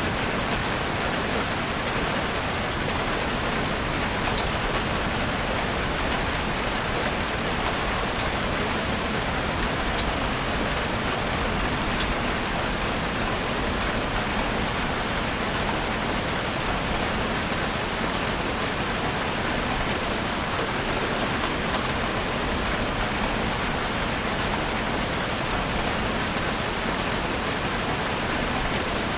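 Heavy rain drumming on a roof: a dense, steady hiss of drops with fine scattered ticks.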